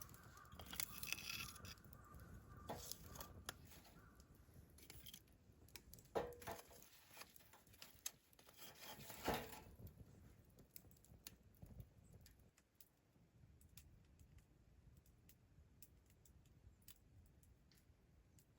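Faint handling sounds: clustered clicks and rustles with a few louder knocks in the first half, then only sparse small clicks.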